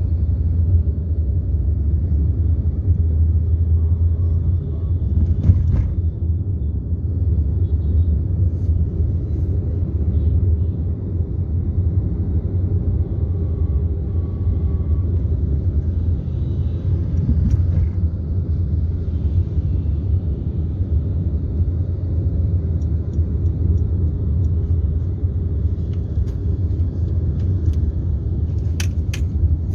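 Steady low rumble of a vehicle in motion, with a few faint clicks near the end.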